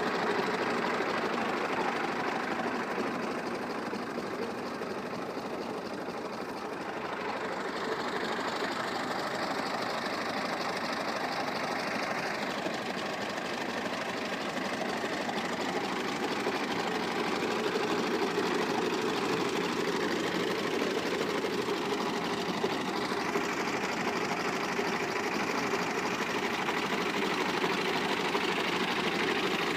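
Al-Ghazi tractor's diesel engine running steadily, with a fast mechanical clatter. It dips slightly in loudness about five seconds in.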